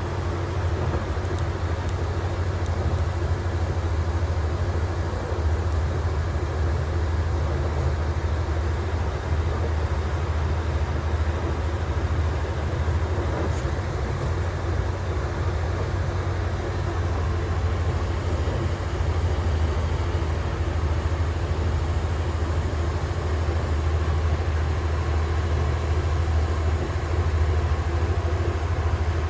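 Passenger train running at steady speed: a constant low rumble and hum, with a few faint high ticks about a second in.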